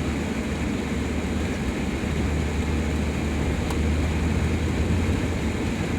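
Dodge van driving on a snowy road, heard from inside the cab: a steady low engine and road drone with constant tyre and wind noise.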